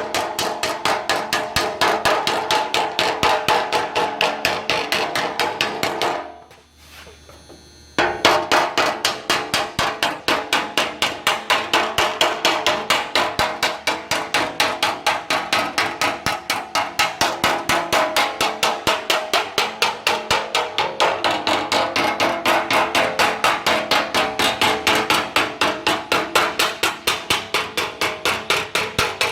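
Steady, rapid hammer blows on sheet metal, about three to four a second, shaping an aircraft engine cowling by hand. The blows stop for about two seconds some six seconds in, then resume at the same pace.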